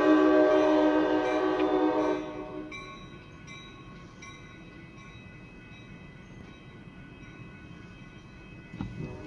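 Locomotive air horn blowing a multi-note chord that stops about two seconds in. Faint, high ringing tones carry on for a couple of seconds after it.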